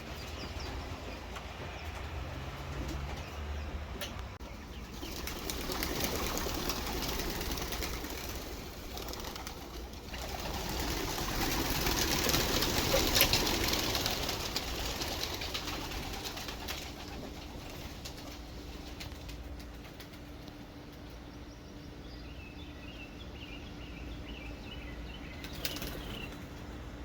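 Wings of a flock of young racing pigeons flapping, swelling twice as the flock passes, loudest about halfway through. Faint bird chirps come near the end.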